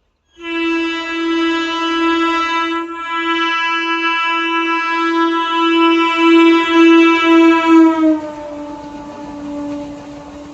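Locomotive horn sounded in one long, loud blast of about eight seconds; near the end its pitch drops as the train passes, and it fades away.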